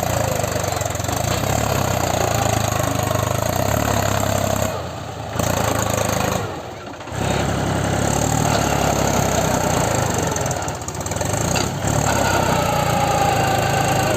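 Tractor diesel engine running steadily, with two brief drops in level about five and seven seconds in.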